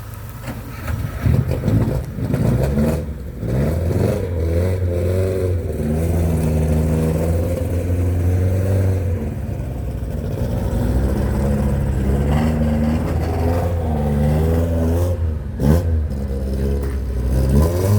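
2002 Mini Cooper's 1.6-litre four-cylinder engine running and being revved: a few quick blips early on, then revs held and rising and falling, and more sharp blips near the end.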